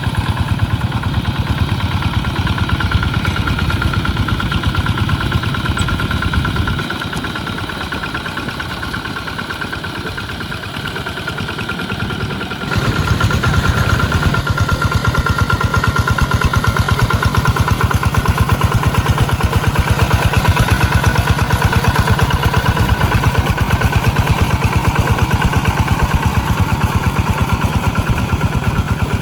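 Tractor engine running steadily with a fast, even chugging. It turns quieter for about six seconds, then abruptly comes back louder.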